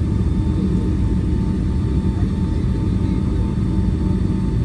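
Steady low rumble inside the cabin of a Boeing 757-300 on the ground after landing, with a faint steady whine above it.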